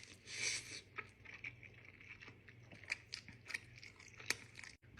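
A person chewing a mouthful of noodles close to the microphone: scattered wet mouth clicks, after a short hissing slurp about half a second in.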